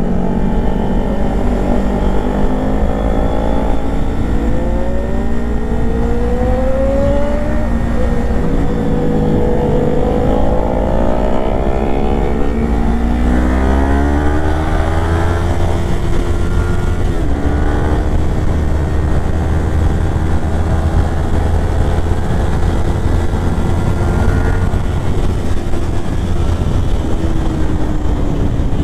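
Kawasaki Ninja 400's parallel-twin engine under way, its pitch climbing and dropping several times as it pulls through the gears, over a steady low rush of wind and road noise.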